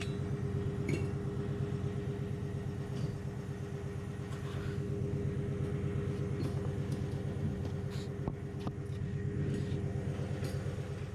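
Porsche Cayenne's engine running steadily, a continuous low hum with a few light clicks over it.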